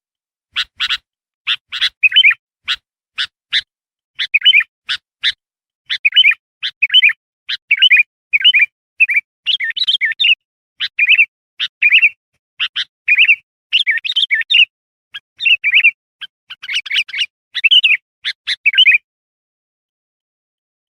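Sooty-headed bulbul (kutilang) calling over and over in short, sharp chirps, some single and some in quick runs. The calls stop about nineteen seconds in.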